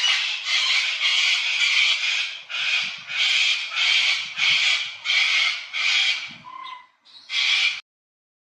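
A guinea fowl screaming, a loud harsh call repeated about twice a second, a dozen times, with a short pause before one last call; the sound then cuts off suddenly.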